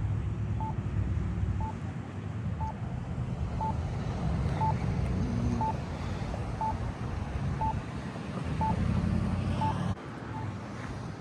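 A short electronic beep repeating about once a second over a low rumble of engine or traffic noise. The rumble drops off about ten seconds in while the beeping goes on.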